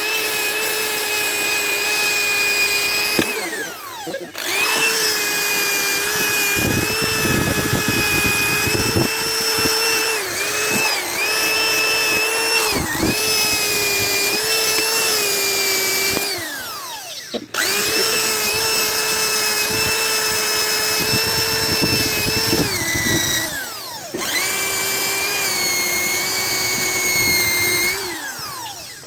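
Electric buffing motor running with a steady high whine. Several times it winds down with a falling pitch and then starts up again. At times a rougher low rumble comes in underneath.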